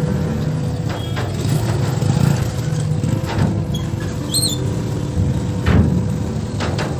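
Low, steady engine rumble with a few scattered knocks.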